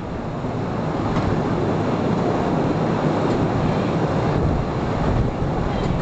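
Cave tourist train running through narrow rock tunnels: a steady rumble and rattle of wheels on rails, with air rushing past the microphone.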